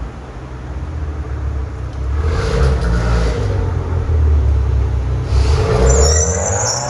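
Supercar engine rumbling under acceleration, the engine note swelling up twice. A short high-pitched sound comes in near the end.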